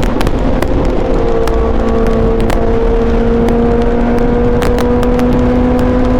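Sport bike engine running at high, steady revs under way, its pitch dipping briefly about a second in and then slowly climbing, with frequent sharp crackles and a heavy low rumble.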